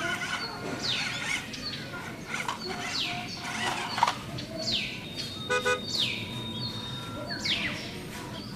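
A bird calling over and over, a sharp falling whistle about every second and a half, with a shorter harsh buzzy call about two thirds of the way through.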